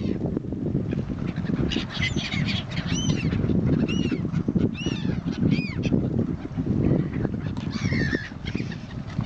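Birds calling: a series of short, arched, high calls about once a second, over a steady low rumble.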